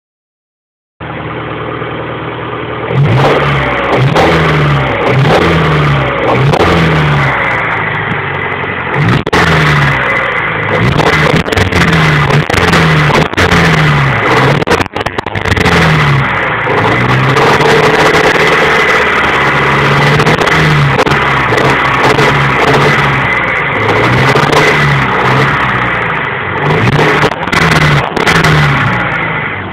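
Honda B21A1 four-cylinder engine idling, then revved up and down again and again in short blips before settling back to idle near the end, with a rod knock.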